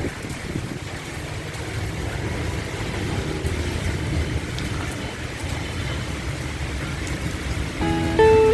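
Heavy rain falling, heard as a steady hiss over a low steady rumble. Plucked guitar music comes in near the end.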